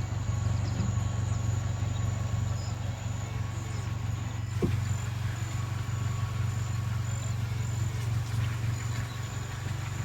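A steady low hum, with insects' thin high whine over it that turns into an even pulsing about halfway through.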